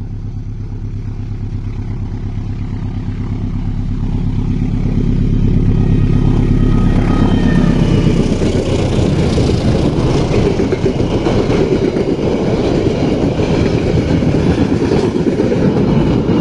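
A diesel locomotive hauling a passenger train approaches, its engine tone growing steadily louder for about seven seconds. Then the economy-class coaches roll past close by with the dense noise of wheels on rail.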